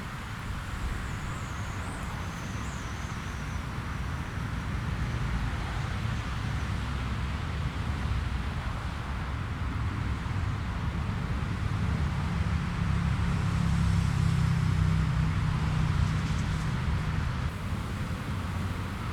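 Jet airliner engine rumble, building slowly to its loudest about three-quarters of the way through and then easing as the aircraft passes.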